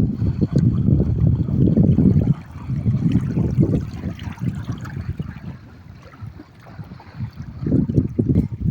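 Wind buffeting the microphone in gusts: a rough low rumble that eases off for a few seconds in the middle and builds again near the end.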